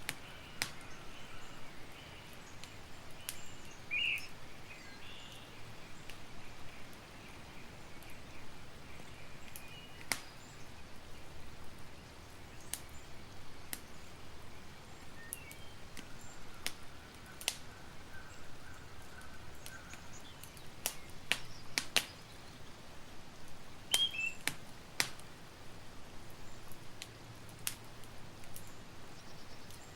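Campfire crackling: irregular sharp pops and snaps over a soft steady hiss. A few short bird chirps come about four seconds in and again a little past twenty seconds.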